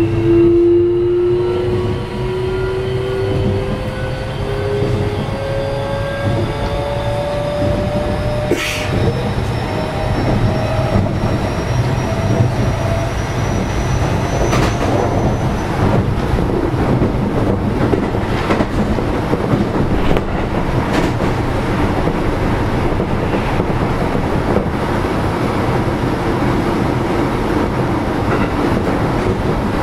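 Keio 7000-series electric train running, heard from inside the car: a whine rising steadily in pitch as the train accelerates through roughly the first dozen seconds, then steady rolling noise with wheel clicks over rail joints.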